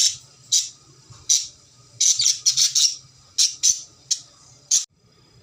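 Cockatiel giving a string of short, harsh squawks, about a dozen, several bunched together in the middle, stopping shortly before the end.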